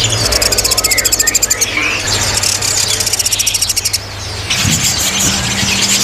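Caged birds calling: a fast, high rattling trill for about the first second and a half, then scattered chirps, over a low steady hum.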